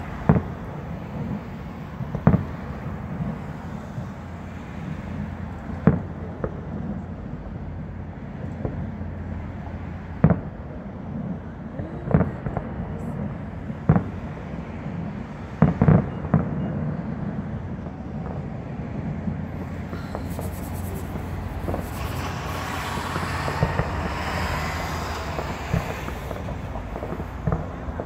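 Fireworks bursting: about eight sharp bangs a few seconds apart, mostly in the first half, over a steady low rumble. A brighter hissing sound rises in the last several seconds.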